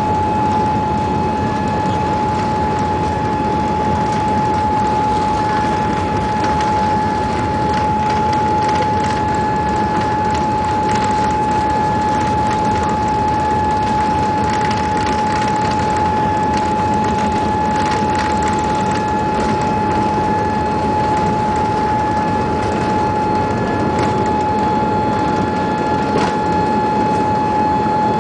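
Steady jet airliner cabin noise: an even rush of engine and air noise with a constant high whine running through it, and a few faint clicks and rattles.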